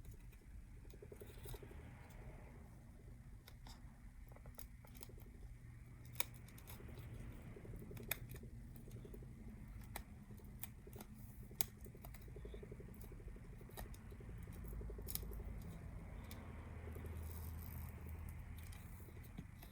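Faint, scattered sharp clicks and small taps from handling a phone and a small hand tool while peeling old adhesive off the phone's frame, over a low steady room hum.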